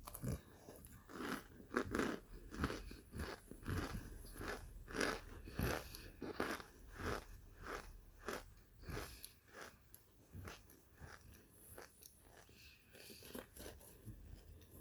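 Microwaved chunks of Kingsford cornstarch being bitten and chewed, a steady run of crisp crunches about one and a half a second that grows fainter over the last few seconds.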